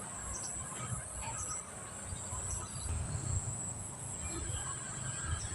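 Insects chirring steadily in one continuous high-pitched drone, over a low uneven rumble.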